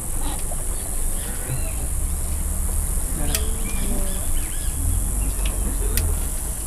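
Steady high-pitched drone of an insect chorus from the riverbank vegetation, over a low rumble, with scattered short chirps. There are two sharp clicks, about three and a half and six seconds in.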